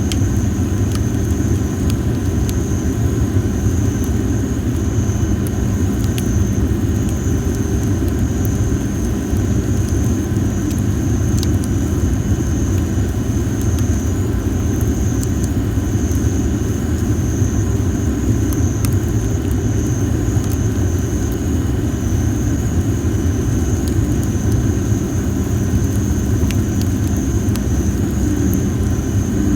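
Campfire of well-dried masaki (Japanese spindle tree) firewood burning, with occasional sharp crackles over a steady low rumble and a steady high-pitched whine.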